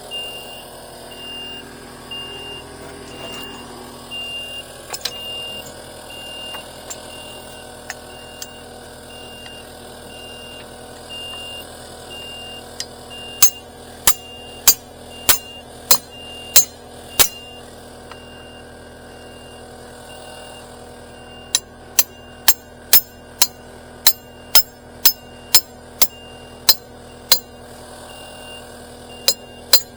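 A vehicle backup alarm beeping at a steady pace. Runs of sharp clicks or knocks, about two a second, come in twice and are louder than the beeping.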